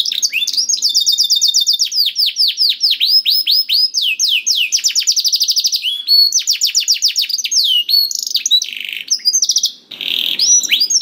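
Domestic canary singing a long, continuous song of rapid trills: fast runs of repeated down-slurred whistles that switch from one trill to the next every second or so, with a short break near the end.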